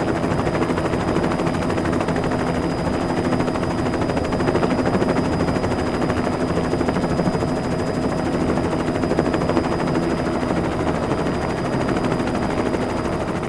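Helicopter rotor chopping steadily and rapidly, fading out near the end.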